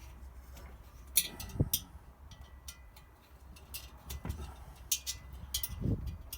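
Scattered light clicks and taps of small metal parts of a diesel heater being handled and worked loose by hand, over a low steady hum.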